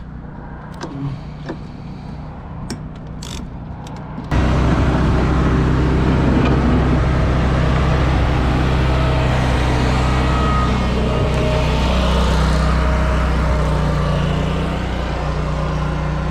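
A small engine running steadily, with a few light metallic clicks in the first seconds. About four seconds in, the engine sound jumps abruptly much louder and stays steady.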